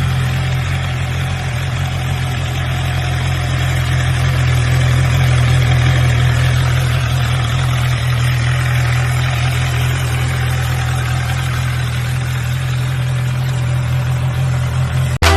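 A vehicle engine running at a steady speed: a constant low hum with an even rushing noise over it, with no revving.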